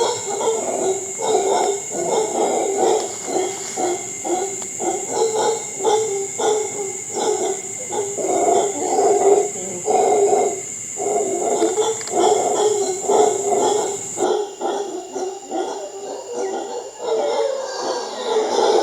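Howler monkeys roaring together in a long chorus of deep, rough, pulsing calls.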